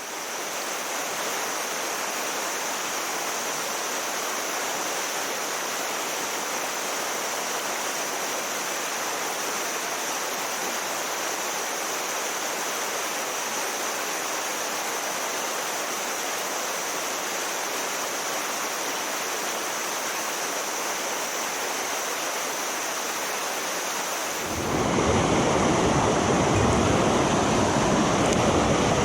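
Rushing mountain stream: a steady wash of flowing water with a faint high hiss over it. About 24 seconds in it becomes louder and fuller.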